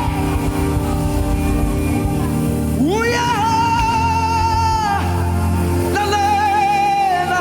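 Live gospel praise music: a band plays steadily under a singer who holds long notes with vibrato. The singer swoops up into a held note about three seconds in and comes in again about six seconds in.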